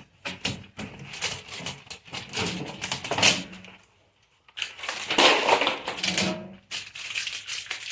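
Packaging being handled: a busy run of crinkling and crackling with sharp clicks, breaking off briefly about halfway through.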